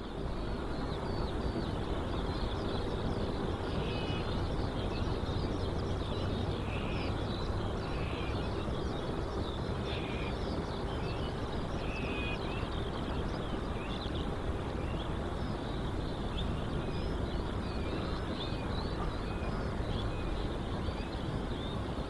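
Birds chirping and twittering, many short quick calls over one another, against a steady low outdoor rumble.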